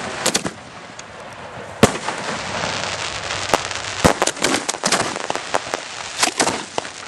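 Aerial fireworks shells bursting overhead in a series of sharp bangs, the loudest about two seconds in and a quick cluster of reports around four to five seconds in, with hissing and crackling from the falling stars in between.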